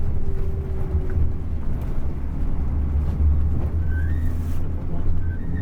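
Bus diesel engine running with a steady low rumble, and a faint whine that falls slowly in the first second.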